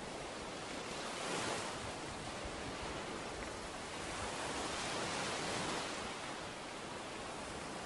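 Ocean waves washing onto a beach: a steady surf hiss that swells once about a second and a half in, then again for longer in the middle.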